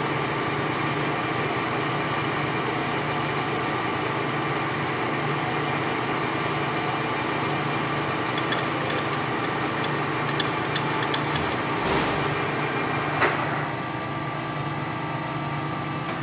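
A machine tool running steadily with a hum of several steady tones, with a few small metallic clicks in the second half and one sharp knock about 13 seconds in, after which it runs a little quieter.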